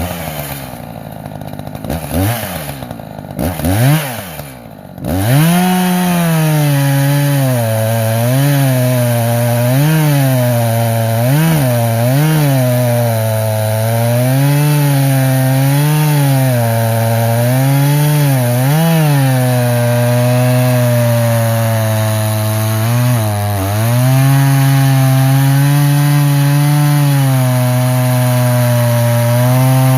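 Echo CS-590 two-stroke chainsaw revved in a few quick blips, then run at full throttle through a log, its engine note dipping and recovering every second or two under the load of the cut before holding fairly steady, with a brief drop a little after two-thirds of the way.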